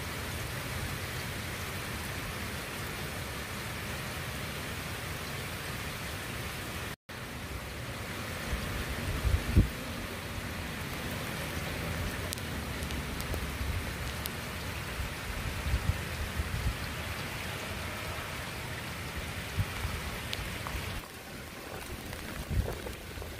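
Steady rain falling on a wet street and lawn, an even hiss of drops. The sound cuts out for an instant about a third of the way in, and a few low thumps come through around the middle.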